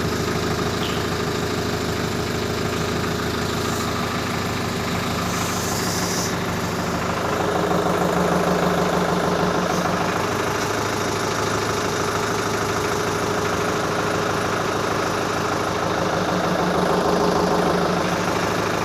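Tractor diesel engine idling steadily, swelling slightly twice.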